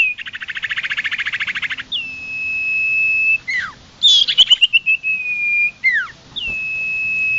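Sirtu songbird singing: a fast trill for the first couple of seconds, then long high whistles held at one pitch, broken by short downward-slurred notes and a quick run of falling notes about four seconds in.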